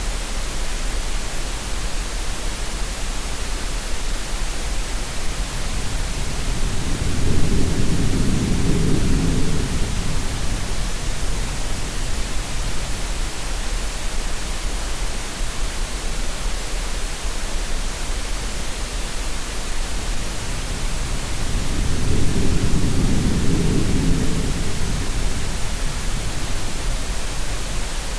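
Steady green noise, an even hiss, with sea sounds mixed in: two slow, deep swells like waves surging, one about a quarter of the way in and another about three quarters of the way in.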